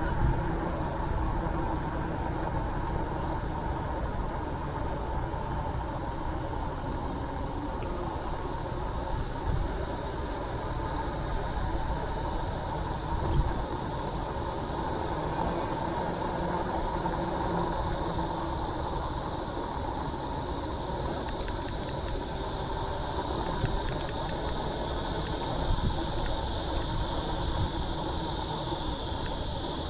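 Steady rumble and hiss of wind and road noise from riding a bicycle, with a few brief knocks, one about halfway through.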